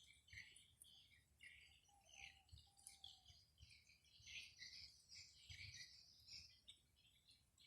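Faint, busy chirping of small birds, many short high calls overlapping irregularly, with a brief lower whistled note a couple of seconds in. A faint low rumble of wind on the microphone lies underneath.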